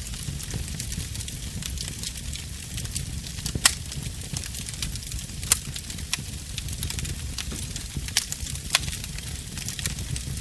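A fire burning in a fireplace, crackling steadily over a low rumble, with a few sharp louder pops scattered through it, the loudest about a third of the way in.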